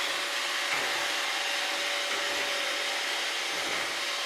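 Robot vacuum cleaner running: a steady whirring hiss with a faint, even hum beneath it.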